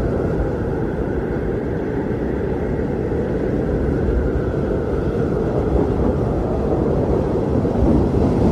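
Strong blizzard wind blowing steadily, a deep, low rush of noise that swells a little near the end.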